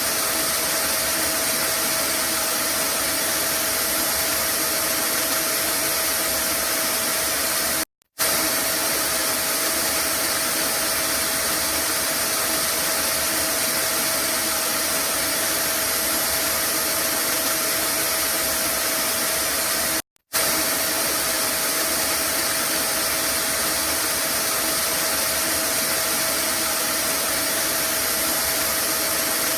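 Vacuum cleaner running steadily, a loud even rush with a held whine from the motor. It cuts out for a split second twice, about eight seconds in and about twenty seconds in.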